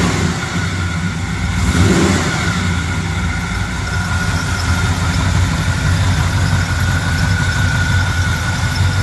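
GM 454 big-block V8 running under an open hood, revved briefly in the first couple of seconds and then settling to a steady, smooth idle.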